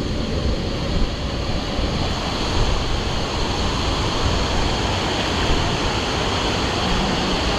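Steady rushing of a waterfall and its fast-flowing water, an even hiss with no break.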